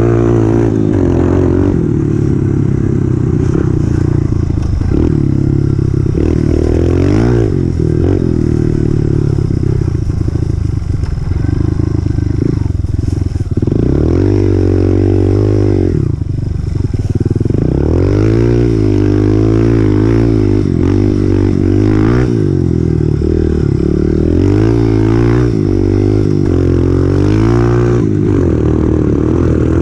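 2018 Honda CRF125F's single-cylinder four-stroke engine under riding load, its note rising and falling again and again as the throttle is opened and closed.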